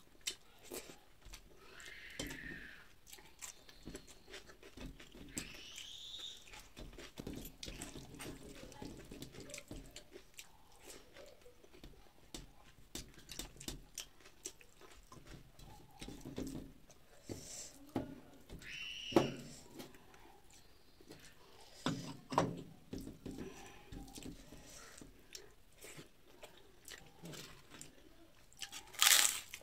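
Soft chewing and lip smacks of a person eating rice and vegetables by hand, with small clicks of fingers against a steel plate. Near the end a loud crisp crack as a fried papad is broken.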